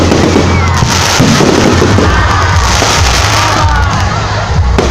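Fireworks bursting and crackling in quick, dense succession, over loud music with a steady heavy bass and the noise of a crowd.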